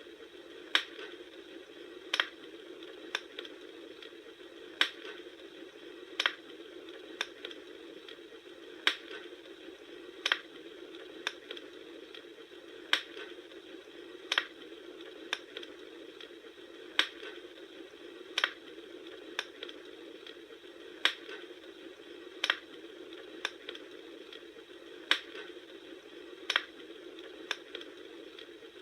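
Wood fire burning, with sharp crackles and pops at irregular intervals, about one a second, over a steady low hiss.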